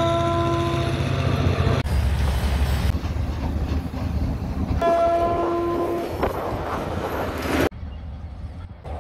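Diesel freight locomotive sounding its multi-note air horn, a steady chord that stops about a second in and sounds again midway for about a second. Under it are the low running of the engine and the rumble of wagons rolling past. The sound changes abruptly several times as the scene cuts between passes, ending on a quieter, more distant train.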